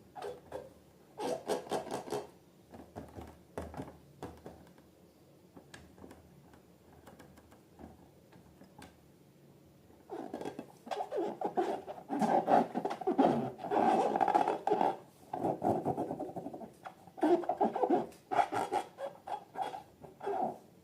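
Slime being squished and worked by hand, giving irregular sticky crackles and clicks. It is sparse at first, then denser and louder from about halfway through.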